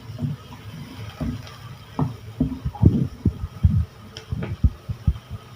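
Spoon or spatula stirring shallots and green chilli in a pan, with irregular dull knocks against the pan.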